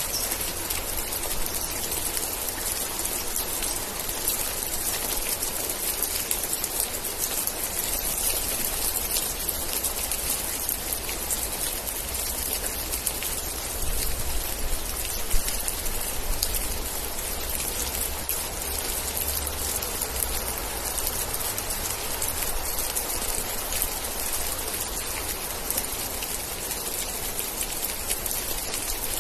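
Steady rain falling, with many small drop ticks over an even hiss and a low rumble through the middle of the stretch.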